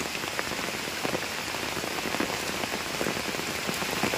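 Steady rain falling on a pond and a bamboo platform: an even hiss of rain, dotted with many small, separate drop hits.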